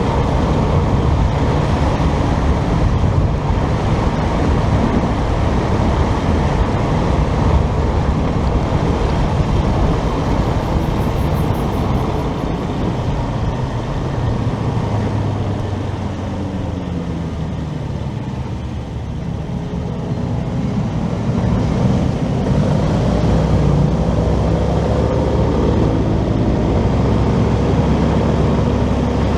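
Riding noise from a motorcycle: wind on the microphone and road noise with the engine underneath. About halfway through, the engine note falls and the sound quietens as the bike slows, then it builds up again.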